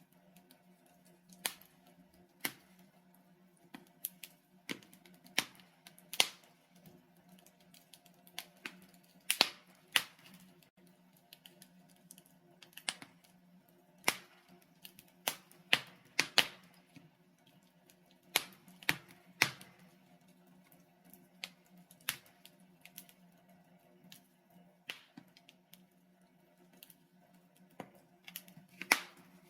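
Wood fire in a fireplace crackling: burning logs giving off irregular sharp snaps and pops, about one a second and bunched together in places, over a faint low steady hum.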